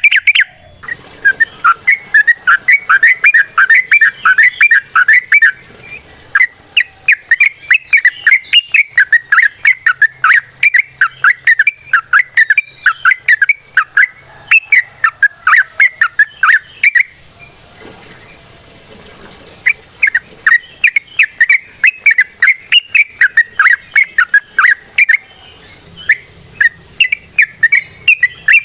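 Yellow-vented bulbul (trucukan) singing its long rapid 'ropel' song: fast runs of loud, bubbly chirping notes, a few per second, in long phrases with a few short breaks.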